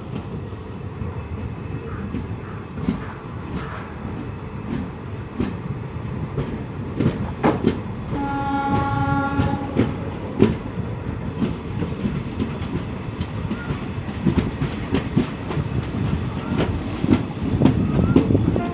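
Passenger train running with a steady rumble and the clickety-clack of wheels over rail joints. Its horn sounds once for about two seconds, about halfway through.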